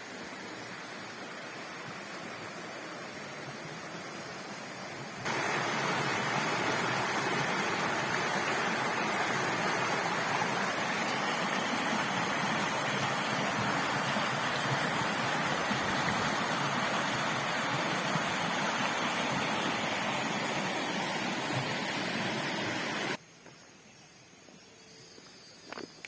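Steady rush of flowing water, stepping up sharply in level about five seconds in and cutting off abruptly near the end, leaving a much quieter background with a few faint clicks.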